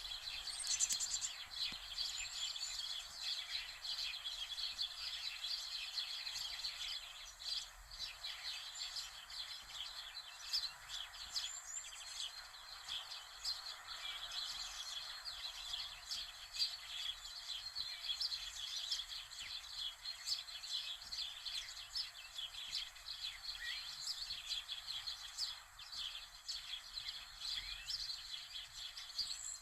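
Many birds chirping and singing together in a dense, unbroken chorus of short high calls.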